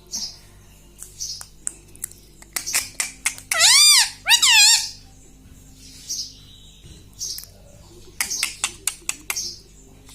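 Ring-necked parakeet chirping and clicking, with two loud, arching, two-part calls about four seconds in.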